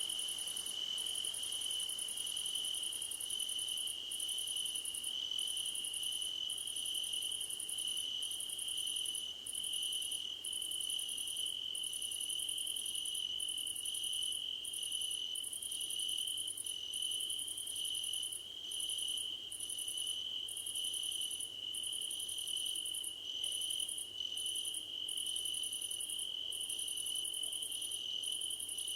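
Crickets calling together: one steady, unbroken high-pitched trill, with a second, even higher trill that breaks off briefly about every second.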